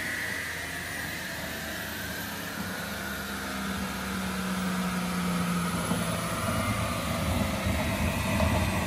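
Supercharged C7 Corvette Stingray's V8 idling steadily on a chassis dyno, growing a little louder in the second half.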